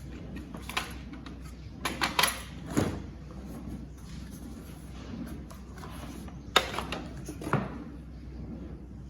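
Packaging and plastic vacuum-cleaner parts being handled: scattered knocks, clicks and rustles, a cluster about two to three seconds in and two sharp knocks near the end, over a low steady hum.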